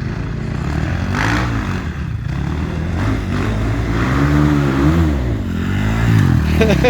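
Enduro motorcycle engine revving, its pitch rising and falling several times as the throttle is opened and closed.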